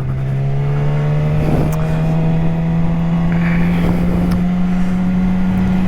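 Yamaha R6 sport bike's inline-four engine pulling steadily under acceleration, its pitch rising slowly and evenly, with wind rushing past.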